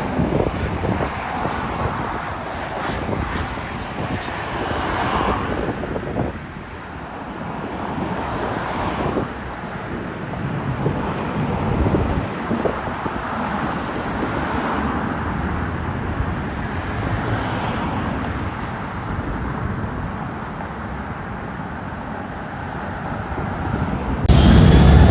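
Wind buffeting the microphone over road traffic, with vehicles swelling past every few seconds. About a second before the end, a much louder low rumble starts abruptly.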